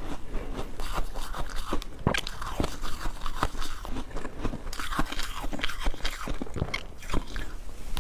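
Ice being bitten and chewed: a rapid, irregular run of sharp crunches and cracks as the cubes break between the teeth.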